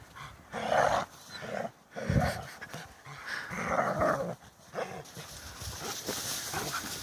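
Two adult shepherd dogs vocalizing during rough play, with three loud outbursts: about a second in, just after two seconds, and around three and a half seconds.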